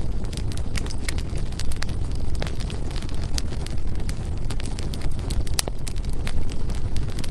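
Firewood burning in a fireplace: a steady low rumble of flames with irregular crackles and pops, one sharper pop about five and a half seconds in.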